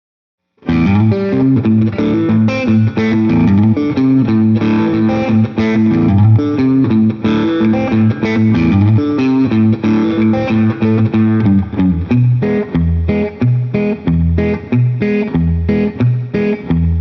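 Liggett Picasso electric guitar with Liggett Vintage Low-Wind pickups being played. It starts under a second in with ringing chords, shifts to a lower-pitched run of notes about two-thirds of the way through, and the last notes ring out and fade at the end.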